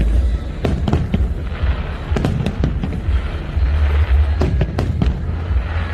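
Fireworks bursting overhead: a run of sharp bangs, several in quick pairs, over a steady deep rumble.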